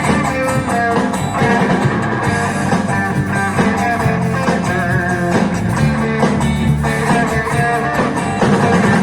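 Rock band music: an instrumental passage with no singing, led by guitars over bass guitar, playing steadily.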